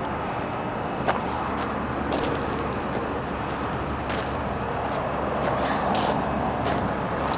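Heavy truck engine running steadily at idle, with scattered short sharp clicks and knocks over it.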